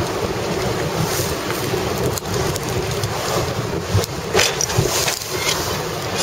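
Strong wind buffeting the microphone aboard a sailing yacht, with water splashing briefly a few times about four and a half seconds in.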